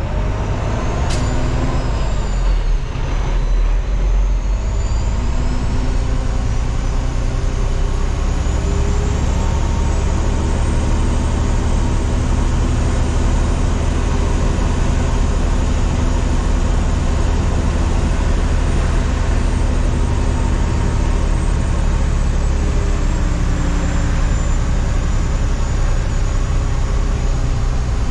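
Dump truck's diesel engine running steadily under way. There is a sharp click about a second in, and a faint high whine that rises over several seconds and later sinks slowly.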